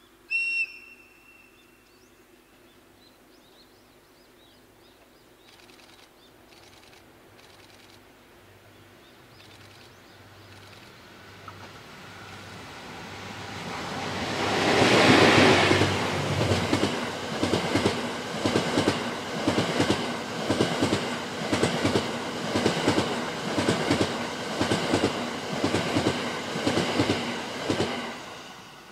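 A short, high-pitched horn blast from the approaching EF81 electric locomotive. Then the locomotive and its E26 series sleeper coaches pass at speed, loudest as the locomotive goes by about halfway through, followed by a steady, rhythmic clickety-clack of the coaches' wheels over the rail joints that dies away near the end.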